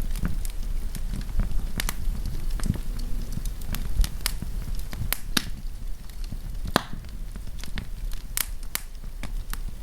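Wood campfire burning, with irregular sharp crackles and pops over a low steady rumble of the flames.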